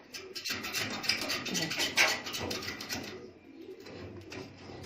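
Clicking and scraping of metal parts being handled inside an opened gas cooker around a burner, loudest about two seconds in.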